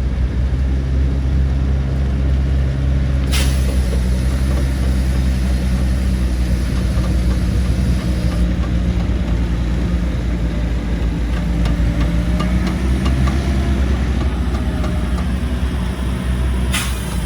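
Heavy diesel engine of earthmoving machinery running steadily with a deep drone. Two sudden sharp clicks cut across it, about three seconds in and near the end.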